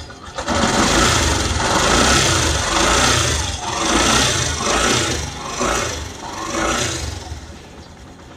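A 125 cc air-cooled motorcycle engine running and being revved. It swells and falls back about once a second, six or seven times, then drops back toward idle near the end.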